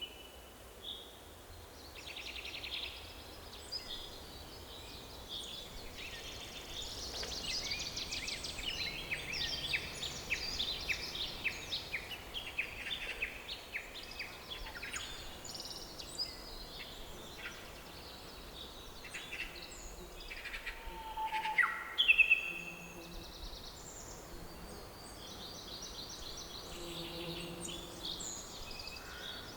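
Forest birdsong: several birds chirping and singing, with a run of fast trilling phrases in the first half and one loud, sharp chirp about three-quarters of the way through, over a soft, steady background hiss.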